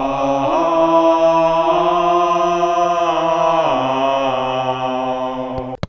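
A long held chanted vocal note, like a drawn-out "aaah", that steps up in pitch about half a second in, drops back near the end and then cuts off abruptly.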